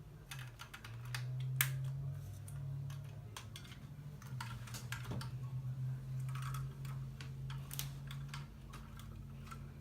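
Plastic LEGO pieces clicking and rattling as they are handled and snapped together, an irregular run of sharp clicks over a low steady hum.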